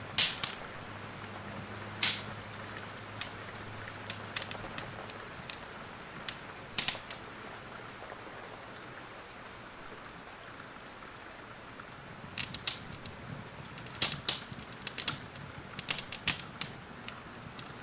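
Steady rain hiss with the sharp pops and crackles of a wood fire scattered over it: a few single pops in the first seven seconds, then a quick run of crackles over the last five or so seconds.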